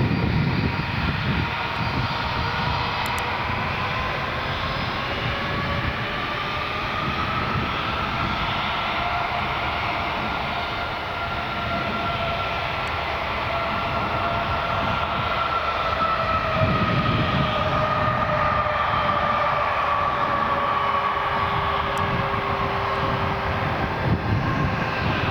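Jet airliner's engines, a steady loud rush with a whine that rises slowly in pitch and later sinks again.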